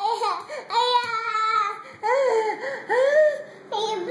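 A baby fussing and crying in a string of about five drawn-out cries that rise and fall in pitch.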